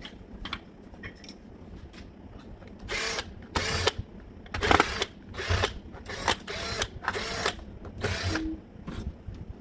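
Makita HP1620 impact drill run in a series of short trigger pulls, the motor spinning up briefly and stopping, about eight to ten times in quick succession starting about three seconds in. A few faint clicks come before.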